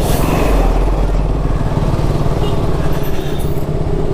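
Motorcycle engine running steadily while riding, with wind noise on the microphone, strongest at the start.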